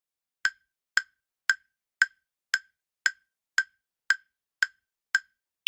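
Countdown-timer ticking sound effect: short, evenly spaced woodblock-like ticks, about two a second, each with the same clear pitch. A higher-pitched tick comes at the very end.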